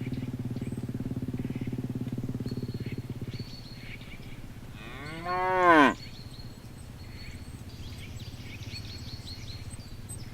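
A cow moos once, loudly, about five seconds in: a single call of about a second that rises and then falls in pitch. Before it, a steady low hum runs and stops about three seconds in, with faint high chirps throughout.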